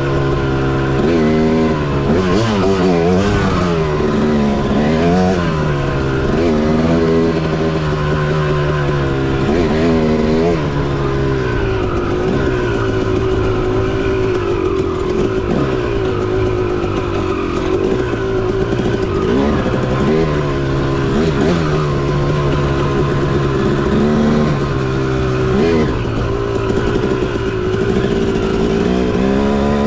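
Dirt bike engine being ridden, its pitch rising and falling over and over as the throttle opens and closes, held steadier for a few seconds midway.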